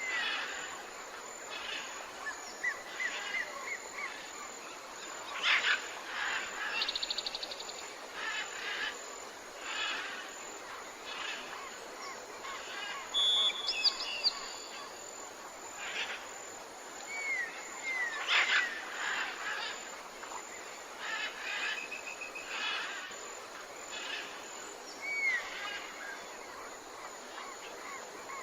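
Tropical forest ambience: many birds calling one after another, with short descending whistles and quick trills over a faint steady background hum of insects or frogs.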